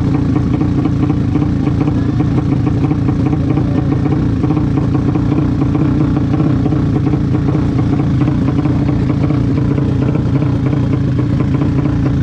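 A vehicle engine running steadily at an even speed, with no revving up or down.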